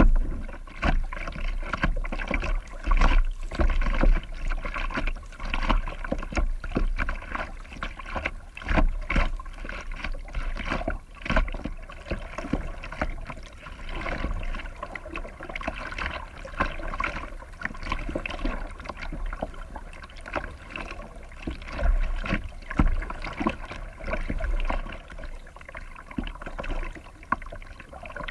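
Kayak paddling: the paddle dips and splashes and water trickles off the blades in a continuous, irregular patter, with low rumbles of wind on the microphone.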